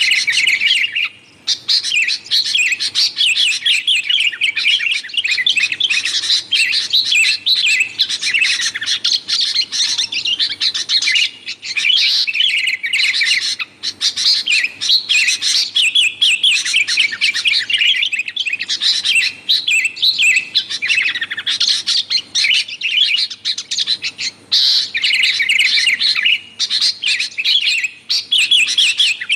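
Sooty-headed bulbul (kutilang) calling busily and noisily: a dense, almost unbroken run of rapid chirps and short warbling phrases, with only brief pauses.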